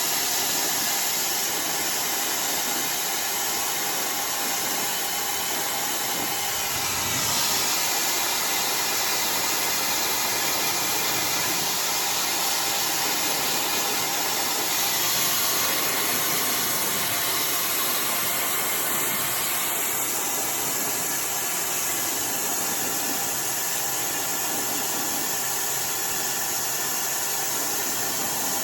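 iDryer AI Pro Style hair dryer blowing steadily, a constant rush of air with a faint motor whine. The airflow sound shifts a little about seven seconds in and again around the middle as the dryer is moved through the hair.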